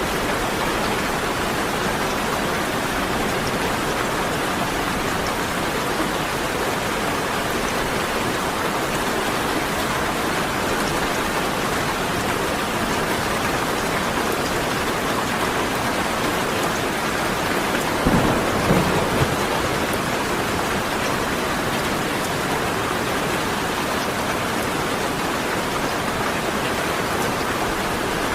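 Steady heavy rain falling, with a short, sudden crack of thunder about two-thirds of the way through that lasts about a second.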